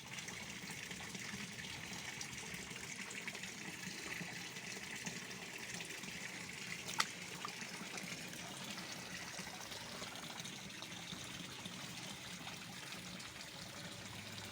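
Steady trickle of running water, with a single sharp click about seven seconds in.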